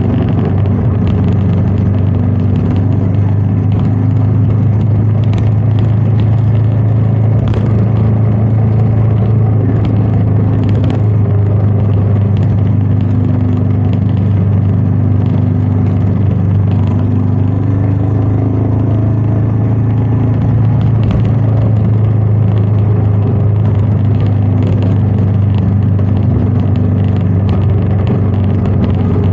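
Royal Enfield Meteor 350's single-cylinder engine running at a steady cruise, its low hum holding an even pitch throughout.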